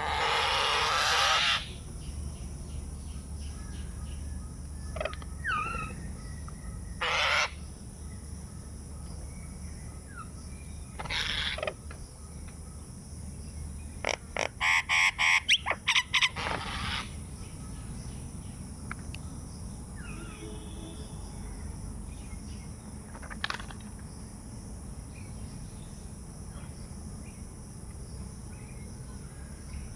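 Birds calling: a long loud call at the start, single calls spread through, and a quick run of about ten calls in the middle.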